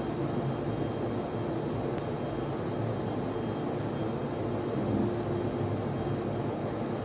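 Server room and network switch equipment running, a steady hum of cooling fans with a faint high tone over it. One small click about two seconds in.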